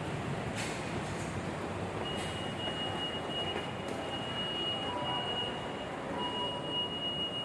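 MRT Jakarta metro train running: a steady rumbling noise with a thin high whine that drops out and comes back.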